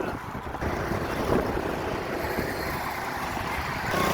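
A motor vehicle running, with a steady engine and road-noise hum that grows louder near the end.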